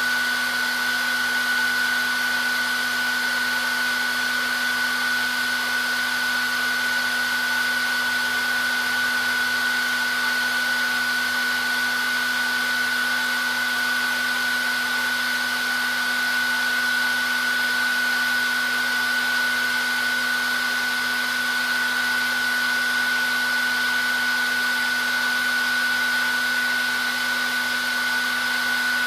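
Hair dryer running continuously at a steady speed: an even rush of blown air with a steady high whine from the motor and fan and a low hum underneath.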